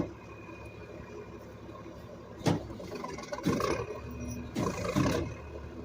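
Garbage truck engine running steadily, with a sharp bang about two and a half seconds in and two longer crashing bursts after it: trash landing in the rear hopper.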